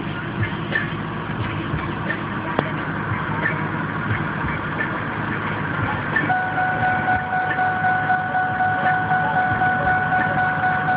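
A 2001 Ford SVT Lightning's supercharged 5.4-litre V8 idling steadily. About six seconds in, a steady high two-note tone joins it.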